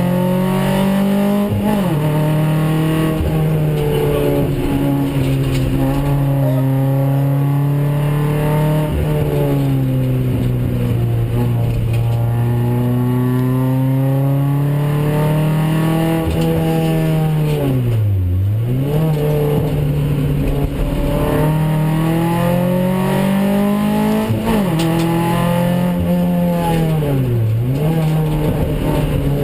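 Renault Clio 16S's 16-valve four-cylinder engine heard from inside the cabin under hard driving, revs rising and falling. Twice, about two-thirds of the way in and near the end, the pitch drops sharply and climbs straight back.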